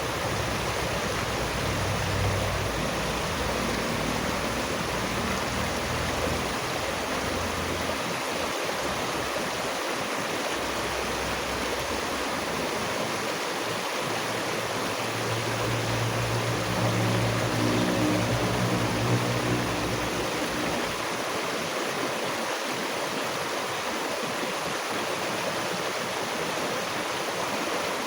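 Steady rush of flowing water, like a stream or cascade. A low hum comes in and fades again a little past the middle.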